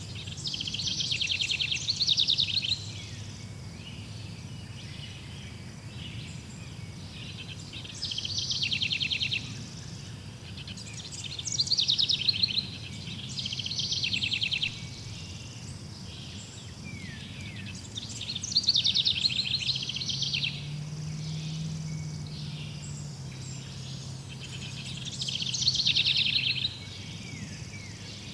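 A songbird singing short, fast high-pitched trills in about six separate phrases, each two to three seconds long, over a steady low hum.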